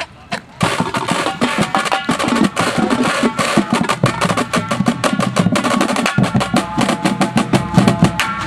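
Drum corps drumline playing a fast, dense drum passage in rehearsal. It starts about half a second in, with pitched ensemble notes under the rapid drum strokes.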